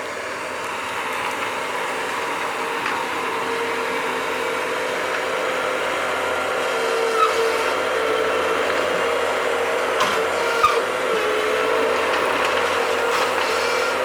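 Bobcat skid-steer loader running steadily, its engine and hydraulics giving a held whine, slowly growing louder at first. A few short clanks come in the second half.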